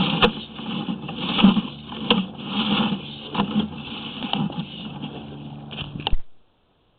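Sewer inspection camera and its push cable being pulled back through the lateral pipe: irregular knocks, clicks and scraping. The noise cuts off suddenly about six seconds in.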